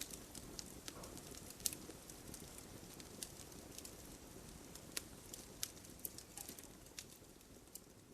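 Wood campfire crackling: irregular sharp pops and snaps over a soft steady hiss of burning, with one louder pop about a second and a half in.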